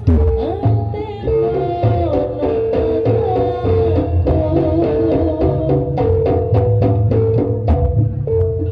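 Live Javanese jaranan (kuda lumping) ensemble music: hand drums play a quick, busy rhythm under a repeatedly held note and a melody that slides up and down in pitch.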